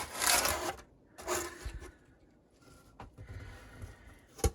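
Two short scraping, rubbing noises, then a faint click about three seconds in and a sharp knock near the end.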